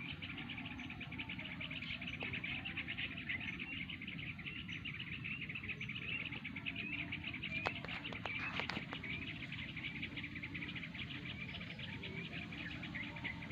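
A flock of yellow-vented bulbuls chattering together as they gather to roost: a dense, continuous chorus of short chirps and quick little gliding notes. A few sharp clicks come a little past halfway.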